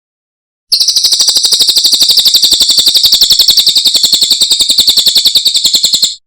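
Cililin bird song: one loud, high-pitched rapid trill of about fourteen evenly repeated notes a second. It starts about a second in and stops abruptly just before the end.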